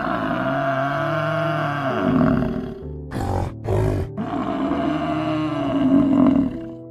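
A big cat roaring in drawn-out, rising-and-falling calls, with two short rasping breaths about three and four seconds in, over steady background music.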